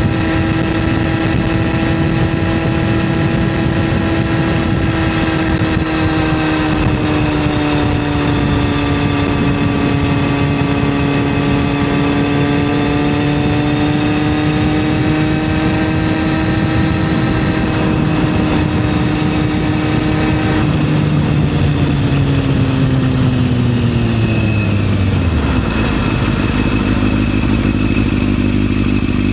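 Yamaha FZS600 Fazer's inline-four engine pulling at steady revs while riding, then the revs fall away over a few seconds as the throttle is closed, settling to a low steady idle near the end.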